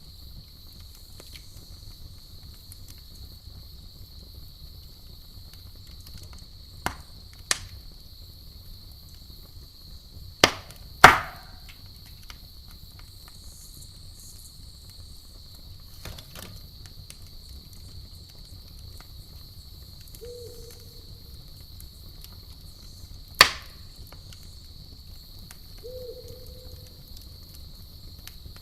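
Campfire with a handful of sharp wood pops and cracks, the loudest about eleven seconds in, over a steady high-pitched chorus of crickets and a low rumble of the fire. Two short low tones sound in the second half.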